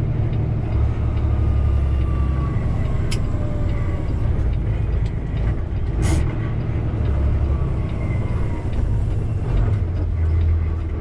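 Semi-truck diesel engine running as the tractor-trailer creeps along and pulls over, a steady low rumble that shifts in pitch a few times, with a short sharp hiss about six seconds in.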